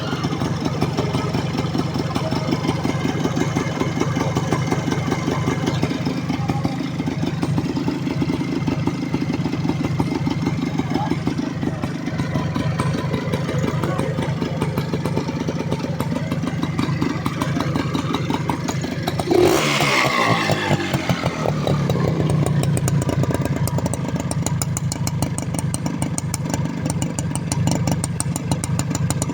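Honda CDI motorcycle engine idling steadily, with a brief rev about twenty seconds in whose pitch falls away over a couple of seconds.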